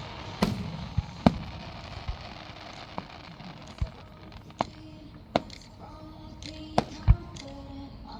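Fireworks going off: about ten sharp booms and cracks at uneven intervals, the loudest about a second in and near the end. Over the first couple of seconds they ride on a crackling hiss that fades away.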